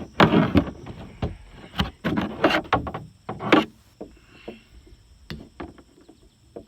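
Knocks and clatters from the fountain being handled and plugged in, dense and loud for the first few seconds, then thinning to light ticks.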